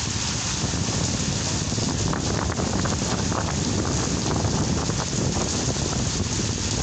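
Kalbaishakhi (nor'wester) storm: steady rain with strong wind, the wind buffeting the microphone with a constant low rumble and a few faint drop ticks.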